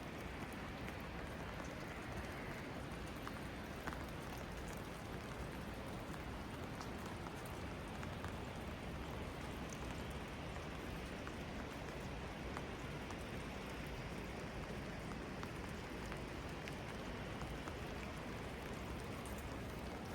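Steady rain falling, with scattered single drops tapping.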